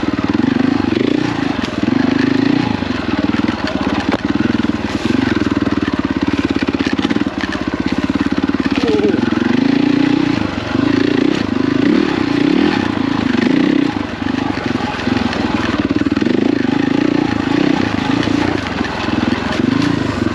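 KTM 450 EXC's single-cylinder four-stroke engine running at low revs, the throttle opening and closing every second or two.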